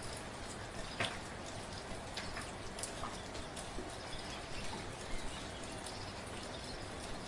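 Soft, steady rain falling, with a constant hiss and scattered individual drops tapping sharply and irregularly close by.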